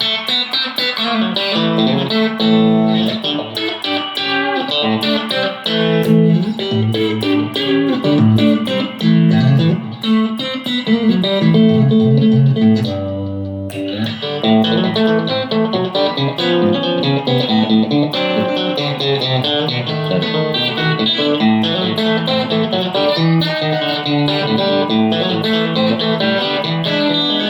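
A 1975 Fender Telecaster Custom electric guitar is played after being rewired with new pots, tone controls and selector switch. It runs through a busy stream of picked notes and chords, and about halfway through the high notes drop out briefly while a low note rings.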